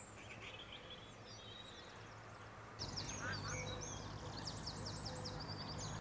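Several small wild birds singing and calling, quick high trills and repeated notes, growing louder and busier about three seconds in, over a steady low hum.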